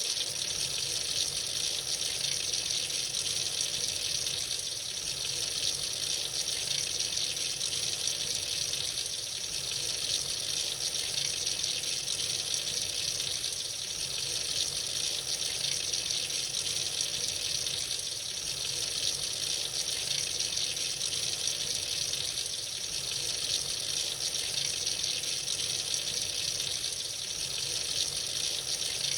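Tap running freely into a sink, a steady, even stream of water.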